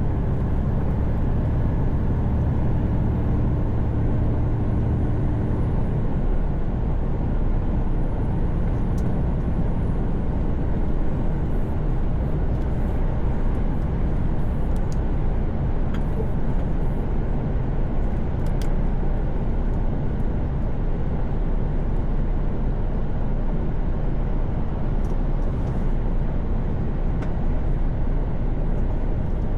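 Cab interior of a Mercedes Actros truck cruising on the highway: a steady low rumble of road and tyre noise. An engine hum under it fades out about six seconds in.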